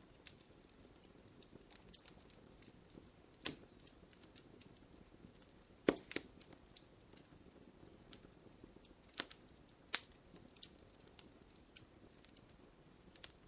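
Wood fire crackling in a fireplace: scattered small crackles with a few louder pops at irregular moments, the sharpest about six seconds in.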